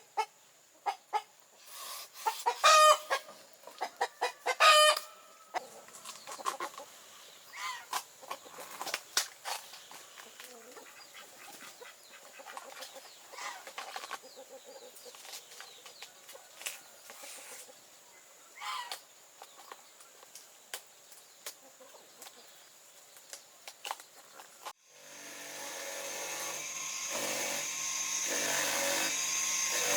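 Chickens clucking, with two loud calls a few seconds in and scattered clicks and taps. Near the end it cuts abruptly to a louder, steady machine-like noise.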